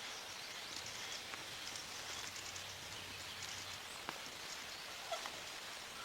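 Faint outdoor woodland ambience: a soft steady hiss with light rustling and scattered small ticks, and one sharper tick about four seconds in.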